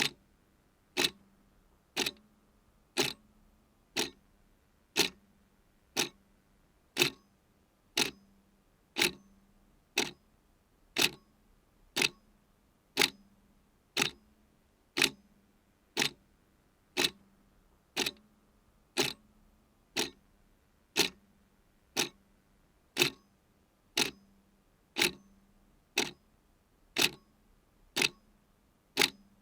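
Clock ticking steadily, one tick a second, with alternate ticks slightly louder in a tick-tock pattern.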